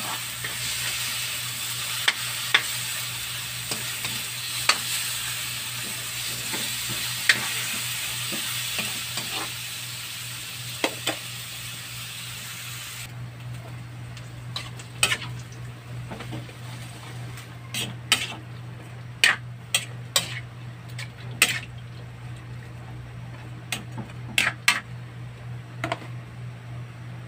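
Chopped tomato and meat sizzling steadily in a hot wok, with the clicks of stirring. About halfway through the sizzle cuts off abruptly and gives way to string beans simmering in adobo sauce, with scattered sharp pops and clicks over a low steady hum.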